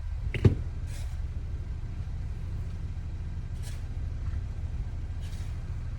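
Vehicle engine idling with a steady low rumble, a sharp knock about half a second in, and a few short hissing swishes.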